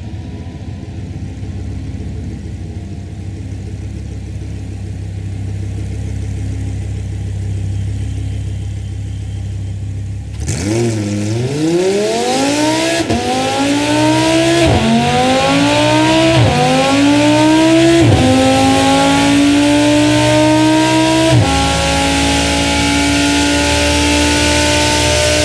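Audi R8 engine running low and steady for about ten seconds, then accelerating hard: the pitch climbs, drops sharply at each upshift about five times, and climbs again more slowly each time, as the car pulls through the gears.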